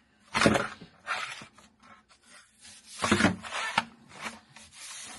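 Scrubbing a pipe clean by hand: a few hard rubbing strokes, then steadier, softer rubbing.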